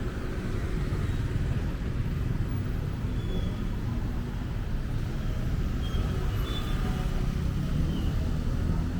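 Steady city road traffic: a continuous low rumble of passing cars and other vehicles, with a few faint short high tones over it.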